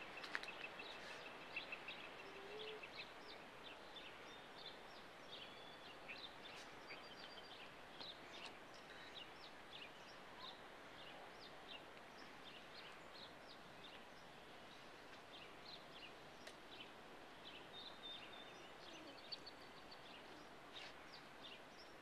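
Faint outdoor ambience of birds chirping: scattered short high chirps over a soft steady hiss.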